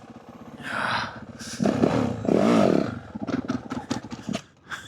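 Yamaha WR450F dirt bike's single-cylinder four-stroke engine idling, then revved up and down a couple of times about a second and a half in, with some clattering afterwards.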